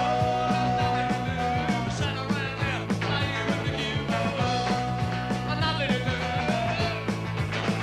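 A rock band playing: drums and bass keep a steady beat under a long held note that sounds twice, with a voice or lead instrument above.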